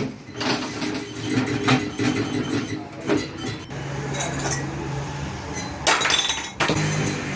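Metal parts and tools clinking and knocking together as a motorcycle is taken apart, with a short low hum midway and a louder clatter about six seconds in.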